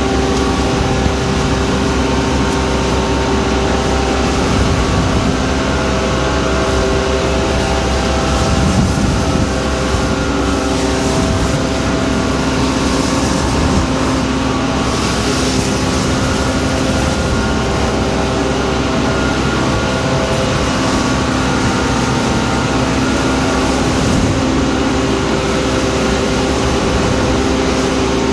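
A 2011 Scania Naaktgeboren Vacu-press 8000 vacuum loader truck running steadily: a loud, even mechanical drone with several steady tones, unchanging throughout.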